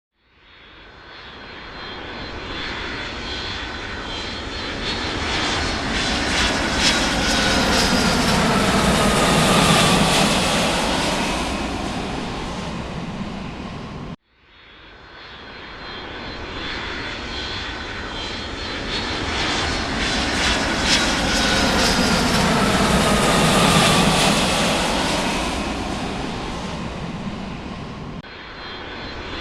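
Jet airplane flying over: the engine noise swells up, peaks with a downward-gliding whine, and fades. The same flyover then restarts abruptly about halfway through and plays again.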